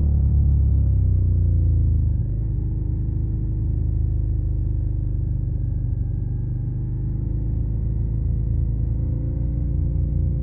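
Suzuki SV650's 645 cc V-twin engine running through a Yoshimura Alpha carbon exhaust while riding. It is loudest for the first two seconds, then eases off with its pitch falling, and picks up again near the end.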